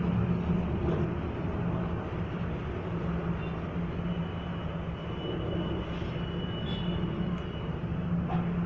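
Steady low mechanical hum with rumble and background noise, like machinery or traffic running; a faint high steady tone comes in for a few seconds in the middle.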